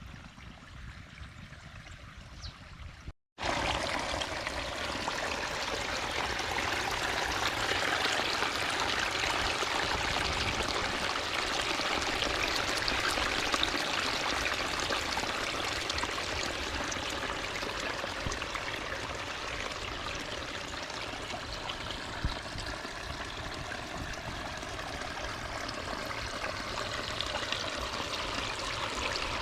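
Flowing water rushing steadily. After a brief dropout about three seconds in, the rush is much louder.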